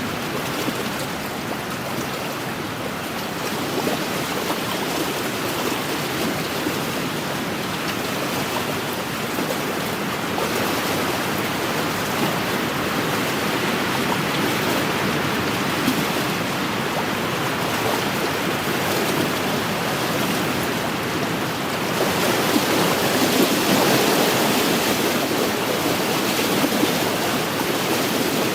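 Wind-driven waves washing against a lakeshore: a continuous watery rush that swells louder about three-quarters of the way through.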